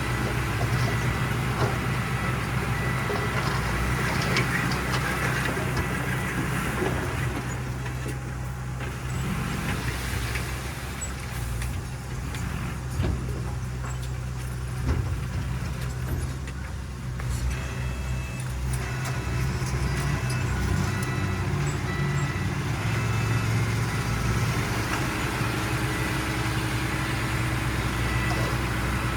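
Heavy diesel engines of earthmoving machinery, a bulldozer and dump trucks, running steadily with scattered knocks. The engine noise eases a little in the middle, then picks up again.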